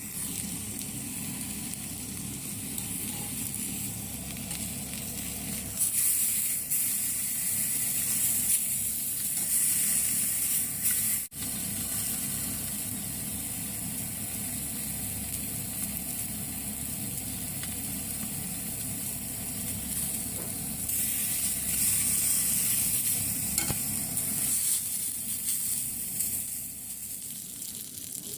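Beef sizzling as it sears over a campfire: a steady frying hiss that swells louder twice, with a brief break about eleven seconds in.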